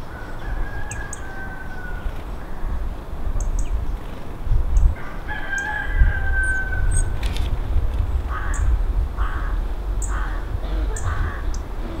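Bird calls: two long, slightly falling calls of about two seconds each, the second louder, then four short harsh calls in quick succession near the end. Faint high chirps come and go over a low background rumble.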